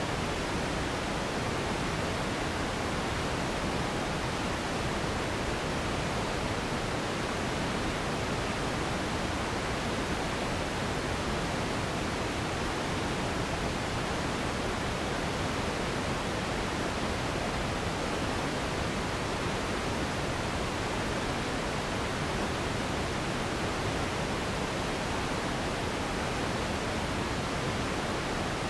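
Steady pink noise for sleep and relaxation: an even, unchanging hiss, fuller in the low and middle range than in the highs.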